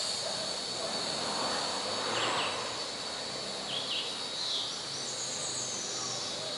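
Outdoor rural ambience: a steady high insect drone with short bird chirps every second or two and one high falling whistle late on.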